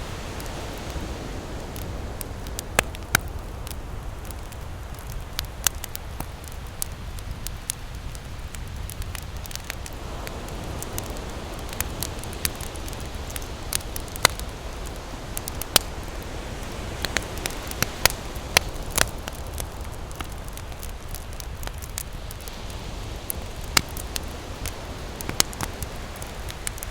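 Campfire crackling with irregular snaps and a few louder pops, over the steady low rumble and slow swells of ocean surf.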